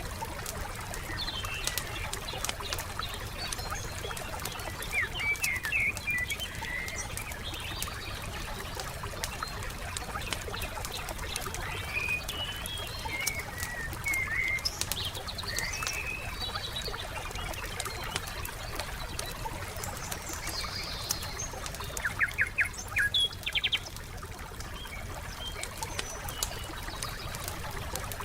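Wood fire crackling steadily with fine, irregular pops, while songbirds chirp and twitter on and off above it, including a quick trill a little past the middle.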